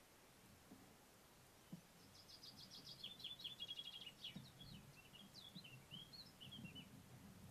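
A songbird singing faintly, starting about two seconds in with a rapid trill of repeated notes and going on into a run of varied, quicker notes for about five seconds. Soft low thuds and rustles sit underneath.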